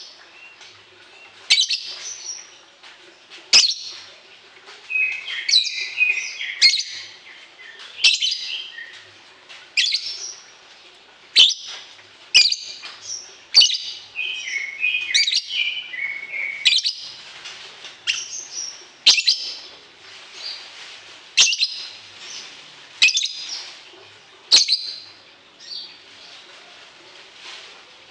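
Caged songbird singing: sharp, high chirps and short trills repeated about every one to two seconds.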